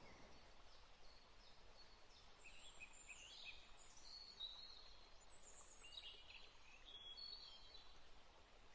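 Faint birdsong: a run of short high chirps and brief whistles from more than one bird, starting about two and a half seconds in, over a soft steady hiss.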